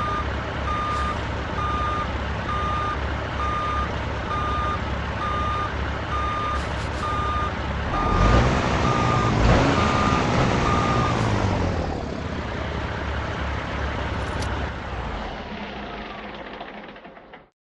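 Truck reversing: its backup alarm beeps evenly, about one and a half beeps a second, over the diesel engine running. The engine revs up and back down around the middle, the beeping stops soon after, and the engine sound then fades away near the end.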